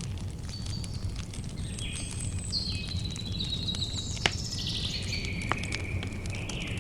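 Campfire crackling, with two sharp pops about four and five and a half seconds in. A bird sings a run of high whistled notes over it, some sliding down in pitch.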